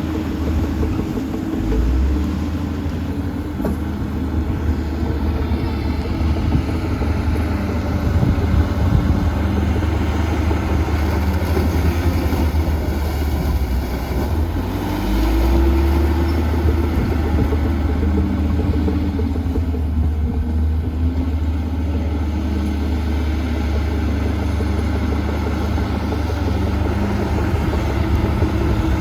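Heavy diesel earthmoving machinery running under load: a steady low engine drone that shifts in pitch a few times as the machines work.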